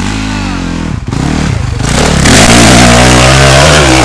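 Dirt bike engine revving: its pitch falls over the first second, dips briefly, then it opens up to full throttle and runs very loud and hard from about two seconds in.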